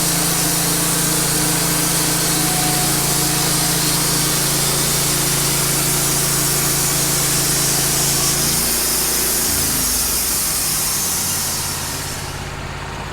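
Wood-Mizer LT15 portable band sawmill running under load, its engine steady while the band blade saws through a cedar log with a high hiss. Partway through, the engine drops in pitch to a lower idle, and the cutting hiss dies away near the end as the cut finishes.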